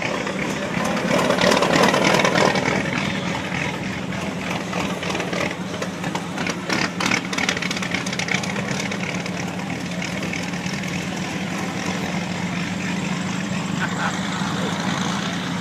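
Engine of a century-old car running steadily, a little louder for a moment about a second in.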